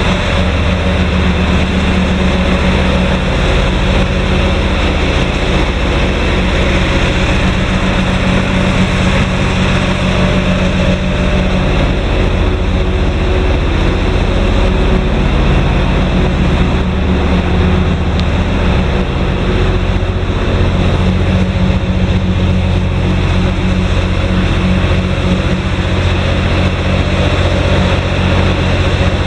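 Scania R420 truck's 12-litre straight-six diesel engine idling steadily.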